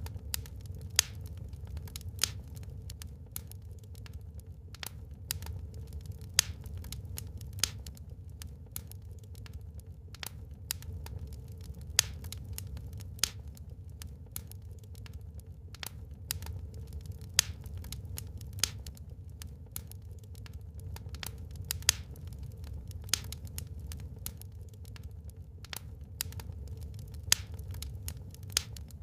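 Wood fire burning in a fireplace: a steady low rumble of the flames with frequent sharp crackles and louder pops every second or two.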